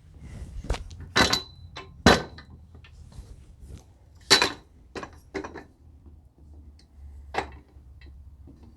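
Metal table-saw parts and tools knocking and clinking as they are handled during assembly: about seven sharp strikes at uneven intervals, a few with a short metallic ring.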